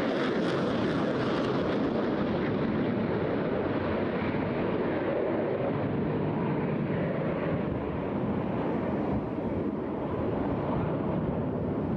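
Eurofighter Typhoon's twin EJ200 turbofan engines heard in flight as a steady rushing jet noise. Its higher hiss thins out after about two seconds.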